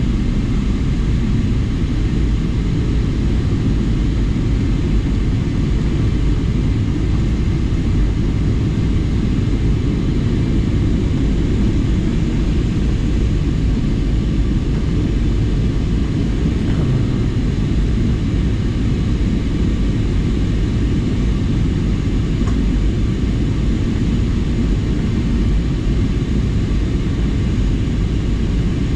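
Steady low rumble of an airliner's engines and airflow heard from inside the passenger cabin, unchanging throughout.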